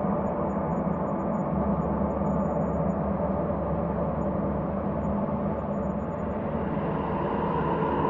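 Ambient space drone: a steady, layered low hum with sustained tones, brightening toward the end.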